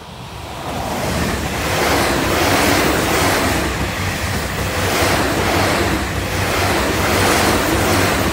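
Tokyu 2020 series electric commuter train passing close at speed: the rush of steel wheels on rail grows over the first second as it arrives, then holds loud, swelling roughly once a second as the bogies go by, over a low steady hum.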